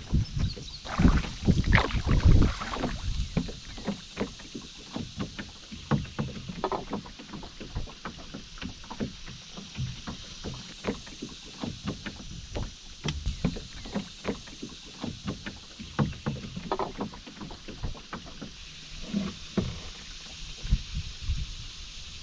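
Canoe being paddled on a river: irregular knocks and splashes from the paddle and hull, busiest in the first few seconds, over a steady hiss of the moving water.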